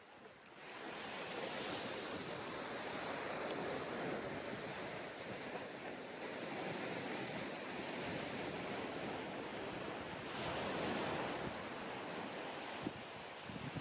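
Sea waves washing onto a sandy beach in a continuous hiss of surf, swelling about half a second in and surging again about ten seconds in. A brief bump near the end.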